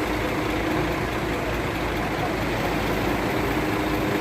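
Boom truck's engine running steadily at a constant speed, with a low hum.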